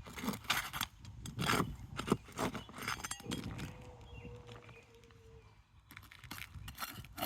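A roof shingle being pried loose and pulled up: irregular scrapes, cracks and knocks, with a quieter stretch in the middle. The shingles are brittle, which the roofer says makes the roof beyond repair.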